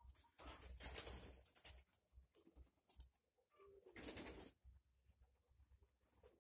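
Nikolaev pigeons cooing faintly, with two louder bursts of rustling noise, one about half a second in lasting over a second, and a shorter one around four seconds.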